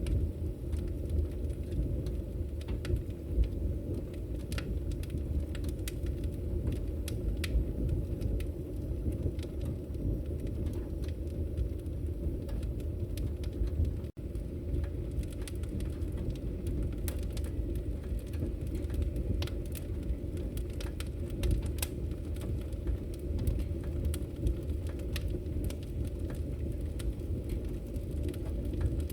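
Wood fire crackling in a fireplace: a steady low rumble of burning with frequent irregular sharp pops and snaps. A split-second dropout about halfway through.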